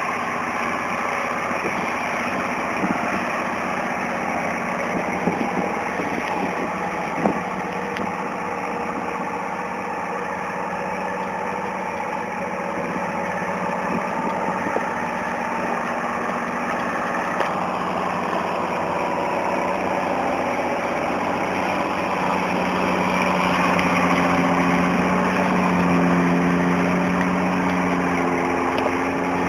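Tractor engine running steadily during manure hauling, with a few knocks and rattles about seven seconds in. In the last third it grows slightly louder, with a clearer engine hum.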